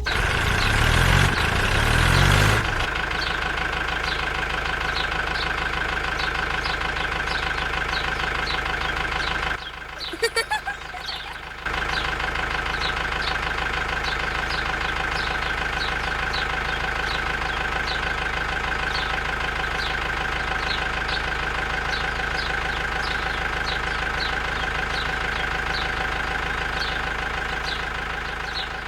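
A small engine-like motor running steadily, the sound of a DIY mini tractor, with a fast regular ticking over a steady drone. It is louder for the first couple of seconds, drops out for about two seconds near the middle where a short falling whistle is heard, then runs on unchanged.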